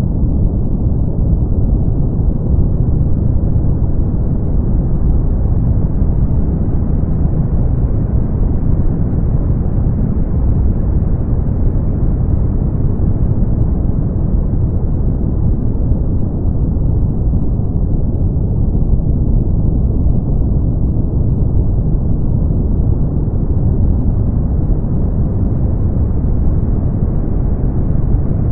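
Brown noise: a steady, even, deep rumbling hiss with no pitch or rhythm, strongest in the bass and fading out above the upper mids.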